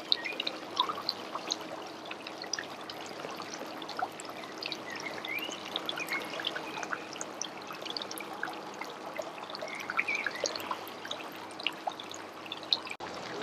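Water trickling and pouring steadily, with many small splashy ticks.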